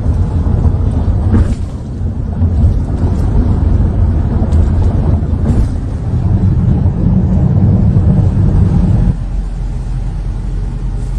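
A car being driven, heard from inside the cabin: a steady low rumble of engine and road noise that drops somewhat about nine seconds in.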